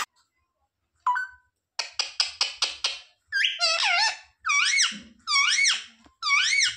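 Pet parrot calling: a quick run of short chattering notes, then four drawn-out whistled calls that rise and fall in pitch, each about half a second.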